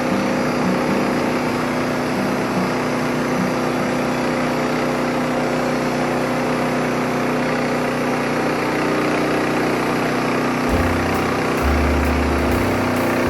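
Wood-Mizer LT15 band sawmill's engine running steadily while the band blade saws a poplar log. A low rumble joins in near the end.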